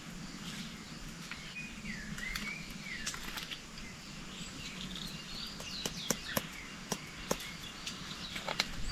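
Birds chirping and calling in gliding notes over a steady outdoor background, with a few sharp clicks about two-thirds of the way in.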